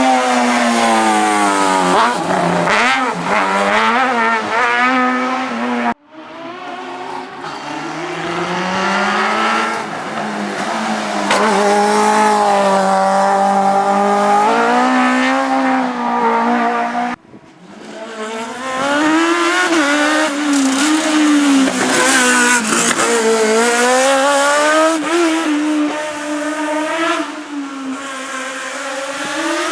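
Race car engine revving hard through slalom chicanes, its pitch climbing and dropping quickly with each throttle lift, braking and gear change. The sound breaks off abruptly twice, about six seconds in and again about seventeen seconds in.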